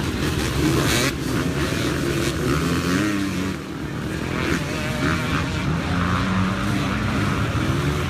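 Several dirt bike engines running at once, their pitches rising and falling as riders rev and ride at a race.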